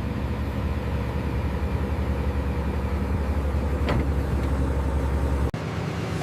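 Heavy diesel construction machine engine running steadily, with a short sharp sound about four seconds in. The sound drops out abruptly and changes near the end.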